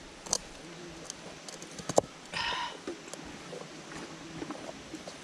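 Stiff ugali dough being turned and pressed in the pot with a cooking stick: a few scattered knocks, a sharp one near the middle, followed by a short scrape of about half a second.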